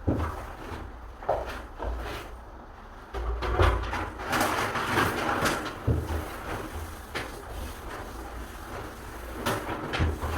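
Irregular knocks, bumps and scraping from hand work on a wooden door and its frame, with a longer stretch of scraping about three to six seconds in.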